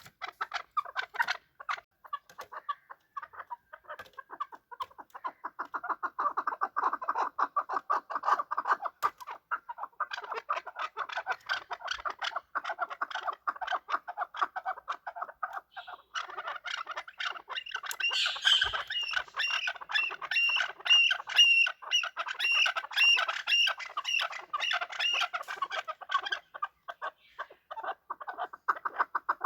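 Chukar partridges calling: a rapid, continuous run of clucking chuk notes. From a little past halfway a higher-pitched note joins, repeated about one and a half times a second for several seconds, then stops.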